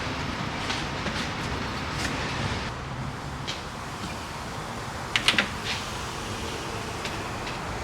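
Light clicks and taps of hand-work on a truck door, with a quick run of sharp clicks about five seconds in, over a steady shop hum.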